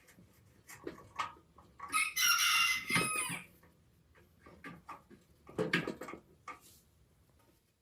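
A rooster crows once, about two seconds in, for roughly a second and a half, over scattered light knocks and clicks of work in progress.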